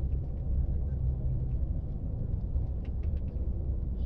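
A steady low rumble, with a few faint ticks above it.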